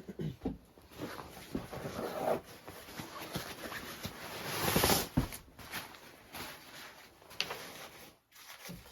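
Irregular rustling and soft knocks of things being handled, with a louder scraping rustle about halfway through and a sharp click later on.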